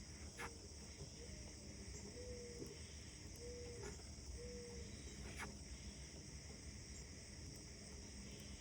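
Faint outdoor early-morning ambience: a steady, high-pitched insect chorus with a low rumble underneath. A bird gives a few short low whistled notes about two to four and a half seconds in, and there are two sharp clicks.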